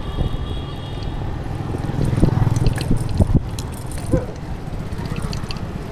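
Footsteps on twigs and brush, with irregular sharp snaps and crackles, over a low rumble of wind buffeting the microphone.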